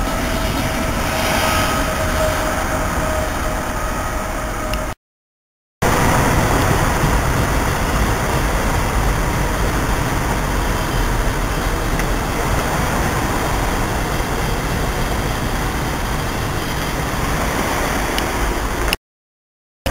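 Double-deck passenger train running along the tracks, a steady rumble and rush of wheels on rail, with a faint steady whine in the first few seconds. The sound drops out briefly twice at cuts.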